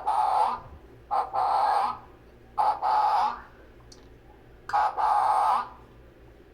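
Parrot giving four loud, harsh calls, each just under a second long, with short pauses between them.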